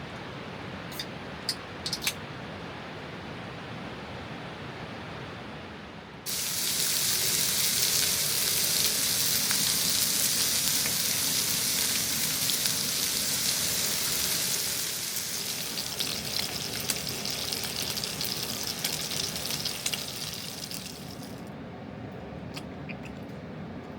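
Rushing river water. About six seconds in, a much louder, brighter rush cuts in abruptly and stops just as suddenly a few seconds before the end, leaving the softer flow underneath.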